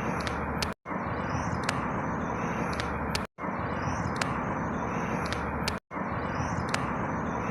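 A short loop of outdoor ambience: a steady rumbling hiss with a few high chirps. It repeats about every two and a half seconds, and each repeat is cut by a brief drop to silence.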